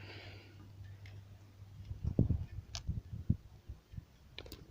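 Handling sounds at a scooter's engine oil filler cap: a brief cloth rustle, then a few sharp clicks and soft knocks as a cloth is laid over the cap and cutting pliers are set on it.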